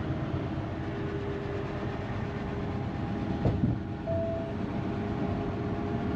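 Steady road and engine noise inside a semi-truck's cab while driving, with a low, even drone. Two sharp knocks come about halfway through.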